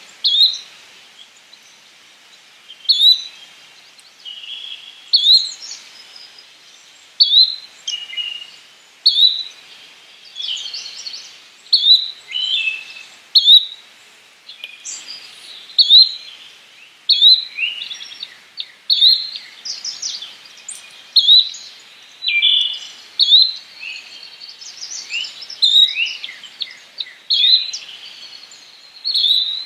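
Yellow-bellied flycatcher calling: a short, sharp note repeated about every two seconds, with other birds chirping more faintly in between.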